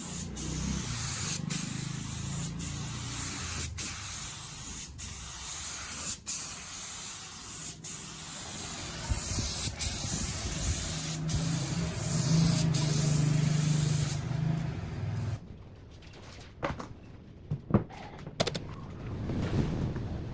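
Spray gun hissing steadily in repeated passes, broken every second or so by short sharp breaks. About three-quarters of the way through the hiss stops, leaving a quieter stretch with a few scattered clicks.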